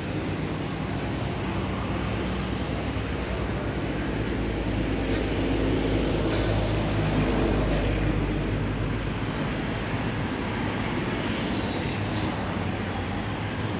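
A low engine rumble that swells about halfway through and then eases off, with a few faint clicks.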